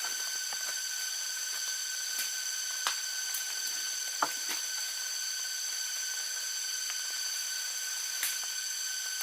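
Steady, high-pitched chorus of insects, with a few light knocks and clicks.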